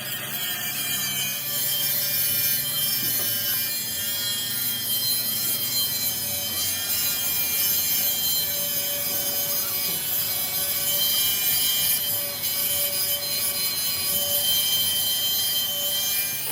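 Power tool grinding steel plate: a steady, high-pitched abrasive hiss with a whine, running without a break.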